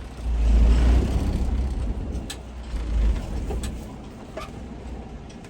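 Semi truck's diesel engine rumbling under throttle as the rig creeps forward, loudest over the first few seconds and then easing off, with a few sharp ticks.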